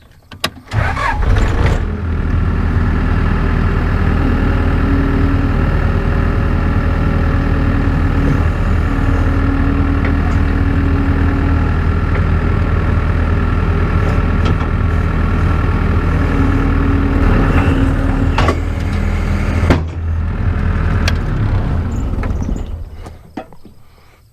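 An engine starts with a short uneven burst about a second in, then runs at a steady even speed for about twenty seconds before dying away near the end.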